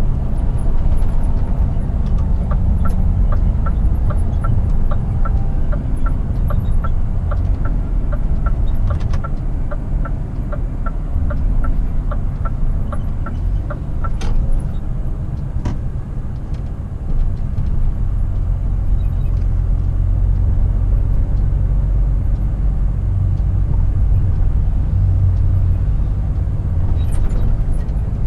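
Scania R450 truck's 13-litre six-cylinder diesel running at road speed, a steady low rumble heard from the cab with tyre and road noise. A couple of seconds in, the turn-signal indicator ticks about twice a second for roughly eleven seconds, and the rumble dips briefly a little past the middle.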